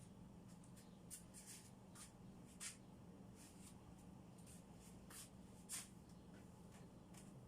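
Near silence: faint, brief rustling and brushing sounds of things being handled, over a steady low hum.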